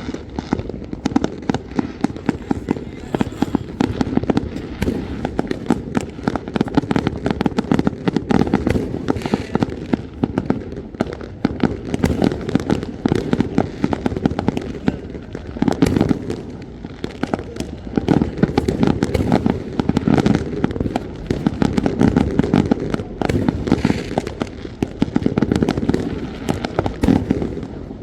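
Fireworks going off in a continuous barrage: many bangs and pops each second with no break, swelling into louder clusters every few seconds.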